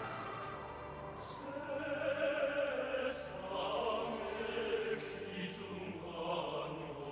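Music: operatic singing in Korean over sustained accompaniment, with wavering held notes.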